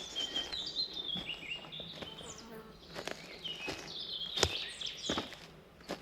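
Forest songbirds singing in short chirping and warbling phrases, one bout at the start and another about four seconds in. A few sharp footsteps on the path come through, the loudest about four and a half seconds in.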